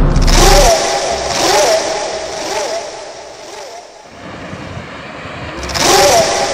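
A motor vehicle's engine, fading away by about four seconds in and growing louder again near the end, as vehicles pass by.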